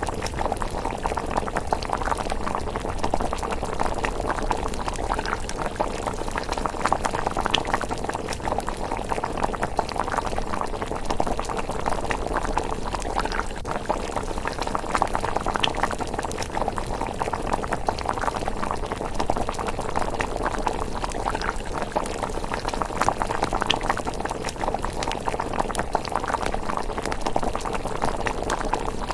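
A pot of rice porridge bubbling at a steady simmer: a continuous, dense patter of small bubble pops.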